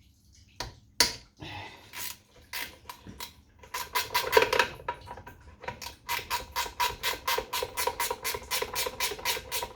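A few separate knocks, then from about six seconds in a rapid, even run of sharp metallic clicks, about five a second.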